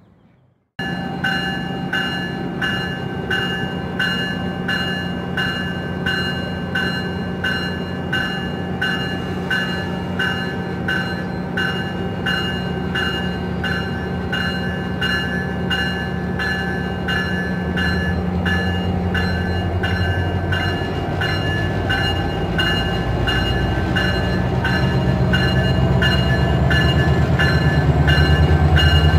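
A bell rings steadily at about one and a half strikes a second while a Metrolink MP36PH-3C diesel locomotive approaches. The locomotive's low engine rumble grows louder through the second half.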